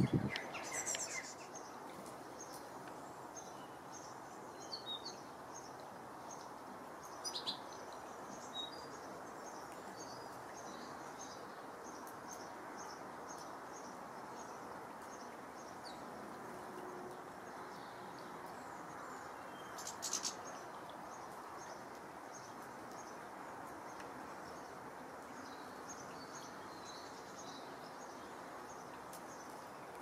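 Small garden birds chirping: a steady run of short, high chirps nearly two a second, over constant background noise, with a few brief sharp sounds just after the start, about seven seconds in and about twenty seconds in.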